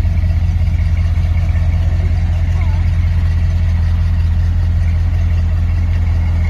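Vehicle engine idling steadily, a deep even hum that holds unchanged throughout.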